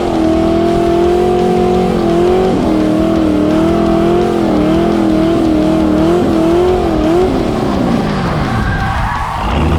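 LS-swapped BMW E36's V8 engine held at high revs, the pitch wavering up and down under throttle, then falling as the revs drop about seven seconds in.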